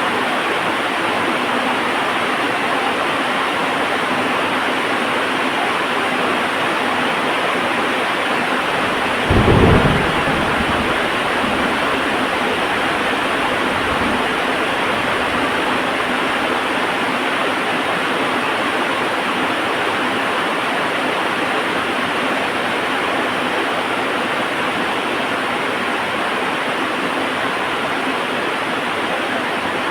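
Heavy rain falling steadily, with one loud thunderclap about nine seconds in that rumbles away over several seconds.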